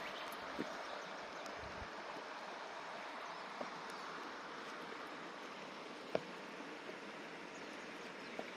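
Wood fire burning in a fire stand, giving a few sharp crackling pops, the loudest about six seconds in, over a steady rushing hiss.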